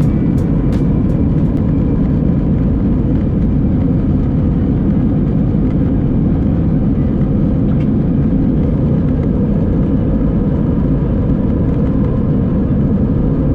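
Steady, loud low rumble inside an Airbus A319 passenger cabin: the jet engines and airflow, holding an even level with no rise or fall.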